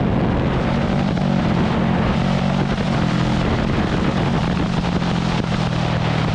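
Small Kawasaki dirt bike engine running at a steady, nearly constant speed, with no revving.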